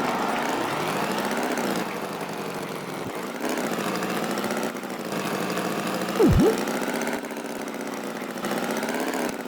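Engine sound effect running steadily, as of a cartoon farm tractor, with a quick springy boing about six seconds in.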